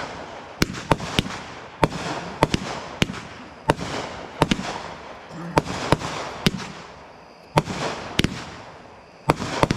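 Fireworks going off in a run of sharp bangs, roughly one to two a second at uneven spacing, each followed by a rolling echo.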